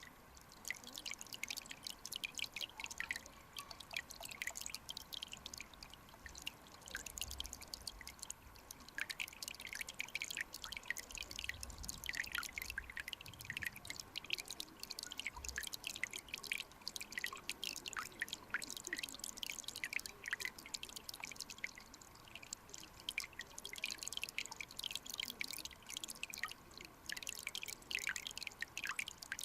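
Clear mountain stream water trickling and bubbling: a dense, irregular run of small high plinks and drips, with a few soft low thumps partway through.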